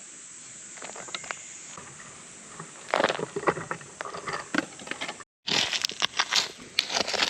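Irregular bursts of rustling and crunching handling noise, cut by a brief drop to silence a little after five seconds in.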